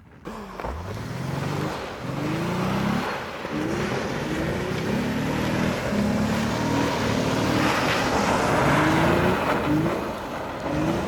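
A car engine revving again and again, its pitch climbing in about ten short rising sweeps as the throttle is worked in a drift on ice. A steady hiss of tyres and snow spray runs under it.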